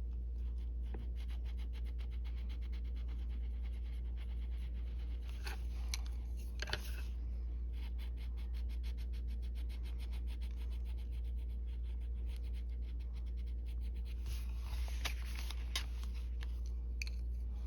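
Arteza colored pencil scratching across paper in fast, even back-and-forth strokes, laying down and blending green on small leaf shapes, with a few louder strokes. A steady low electrical hum runs underneath.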